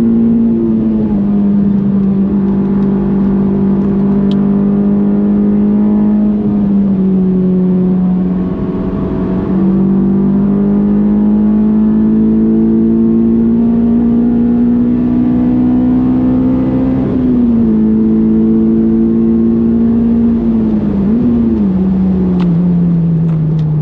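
Honda S2000's 2.2-litre F22 four-cylinder engine pulling hard in a high gear, its pitch climbing slowly over long stretches. The revs drop at upshifts about a second in and around seventeen seconds, a quick blip comes near 21 seconds, and the note falls steadily near the end as the car slows.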